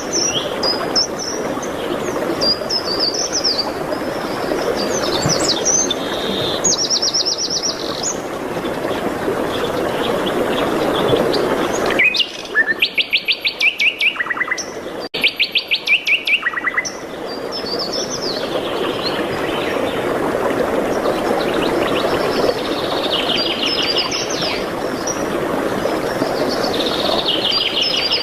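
Several songbirds singing and chirping over a steady rushing background. About twelve seconds in, the background drops away for a few seconds and a loud, fast trill of rapidly repeated notes stands out, the loudest sound here.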